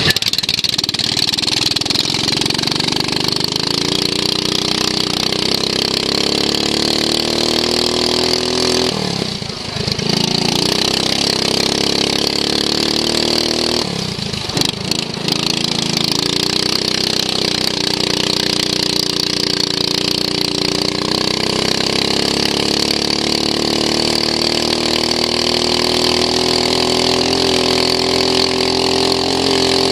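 Racing lawn mower engine running hard under load. It eases off twice, about a third of the way in and again around halfway, then picks up again, with its pitch climbing slowly.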